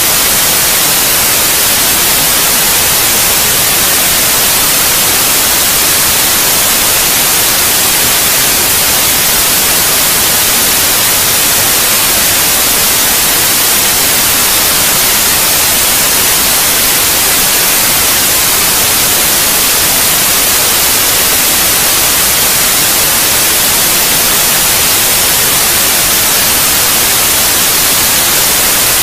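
Steady white noise: an even, unchanging hiss, brightest in the high treble, played as a sleep aid for babies.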